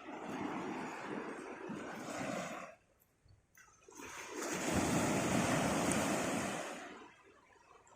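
Seawater rushing and splashing at the shoreline, with a short lull about three seconds in, then a louder surge of water that fades again near the end.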